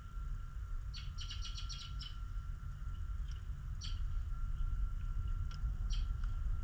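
Small birds chirping: a quick run of about eight short high chirps about a second in, then a few single chirps scattered after it. Under them runs a steady low rumble with a faint steady hum.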